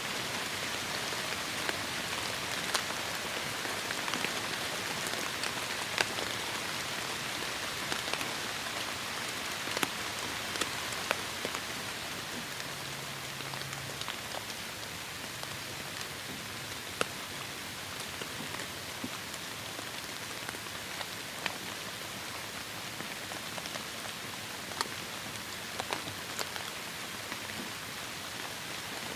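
Heavy rain falling steadily, a dense hiss with scattered louder drops ticking sharply, easing slightly about halfway through.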